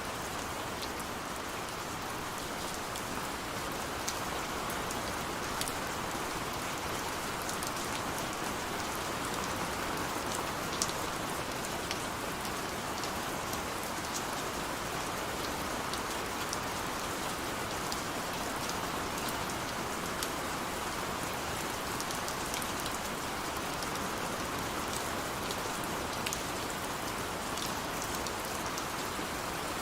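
Steady rain with many small drops tapping, heard against a window.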